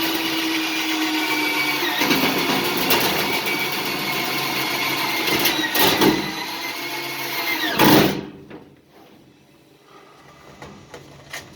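Electric drill running steadily under load for about eight seconds, its whine dipping in pitch a few times as it bites, then stopping suddenly; a few light clicks follow.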